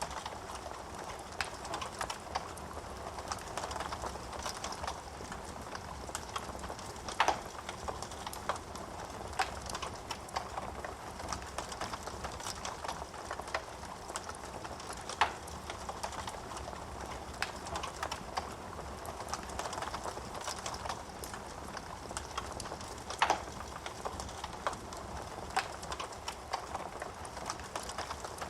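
Wood fire burning in a fireplace: a steady hiss of flames with frequent small crackles of burning wood and a few louder, sharp pops spread through.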